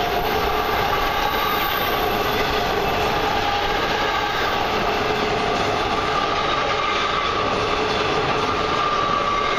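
Long intermodal freight train rolling steadily past, its wheels running on the rails in a continuous rumble with a faint steady metallic whine over it.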